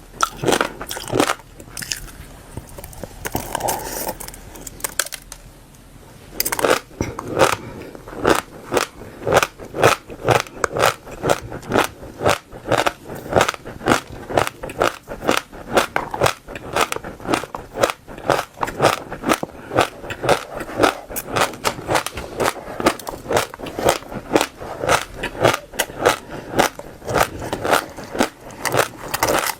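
Close-up chewing of crunchy passion fruit seeds, each bite a sharp crack. A few scattered bites at first, then about six seconds in a steady run of about three crunches a second.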